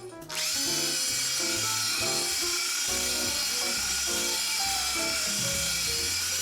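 Electric power tool with a wire brush running steadily, scouring rust off an old cast-iron takoyaki plate. It gives a loud, high whine that starts a moment in and dips slightly in pitch as it settles. Background music plays under it.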